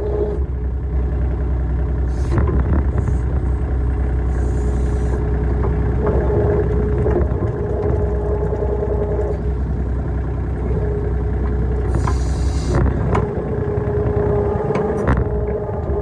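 RK25 compact tractor's engine running steadily while the backhoe works, with a whine that swells and fades and scattered knocks. There are two short hisses, one about a third of the way in and one near the three-quarter mark.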